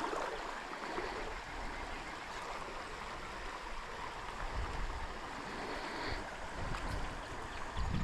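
Trout stream water running steadily, an even rushing and babbling, with a low rumble building near the end.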